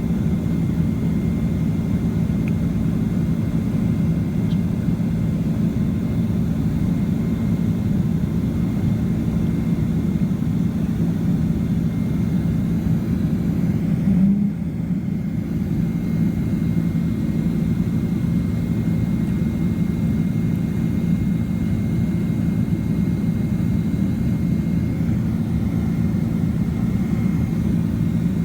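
Boeing 767-300ER cabin noise heard from a window seat: the jet engines and airflow making a steady low drone with a faint steady high whine. There is a short bump in the noise about halfway through.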